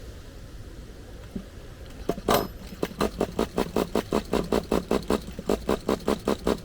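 Flooded nitro engine of an HPI Savage RC truck being cranked over by its starter without catching. It sets in about two seconds in as a rapid, regular chugging of about four to five pulses a second.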